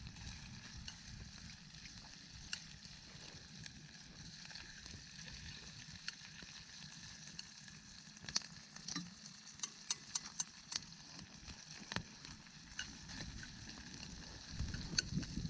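Food sizzling as it fries over a campfire, a steady hiss with scattered sharp clicks that come most often in the second half.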